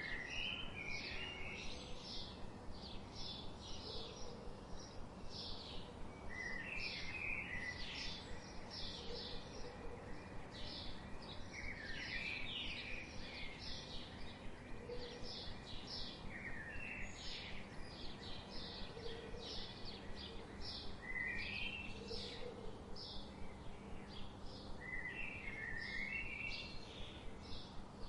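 Birdsong: several small birds chirping continuously in quick, high chirps, with a lower warbled phrase returning every four to five seconds.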